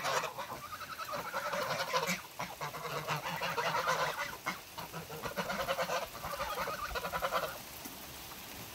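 A flock of domestic waterfowl calling in a rapid, continuous honking chatter that stops about seven and a half seconds in.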